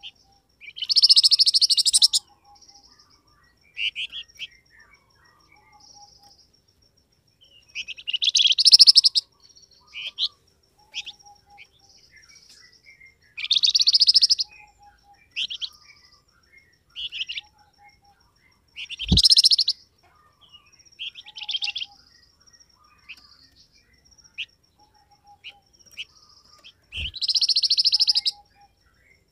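Flamboyan bird song: loud, fast chattering phrases of a second or two, repeated about every five to six seconds, with short high chirps in between.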